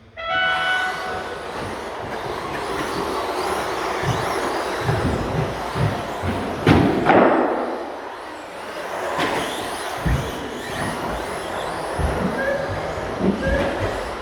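Radio-controlled stadium trucks racing round the track: a continuous mix of motor and tyre noise, with scattered low thumps and one loud surge about seven seconds in.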